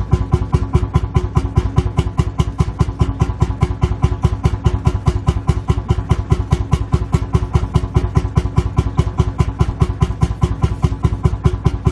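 Lanz Bulldog tractor's single-cylinder two-stroke hot-bulb engine idling, an even beat of about five firing strokes a second.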